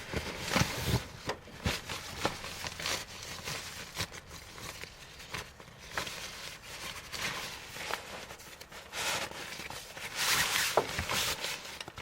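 Irregular rustling with scattered light clicks and knocks, as of things being handled, thickening into a longer rustle about ten seconds in.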